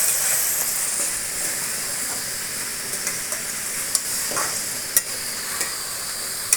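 Food sizzling in hot oil in a pan, with a steady hiss, while it is stirred; a few sharp clicks of the spoon striking the pan come in the second half.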